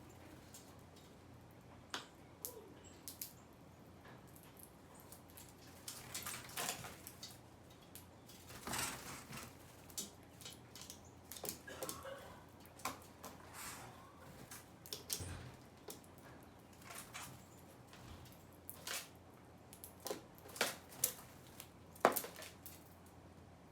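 Small birds feeding, making irregular short clicks and chirps that come thicker after the first few seconds, with a sharper one near the end.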